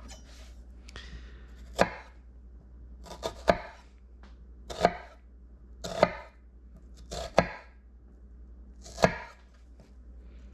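Kitchen knife chopping onion on a cutting board: about eight separate, unevenly spaced knocks of the blade on the board, roughly one a second.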